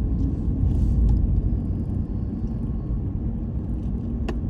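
Car driving along, a steady low rumble of engine and road noise heard from inside the cabin, with one sharp click near the end.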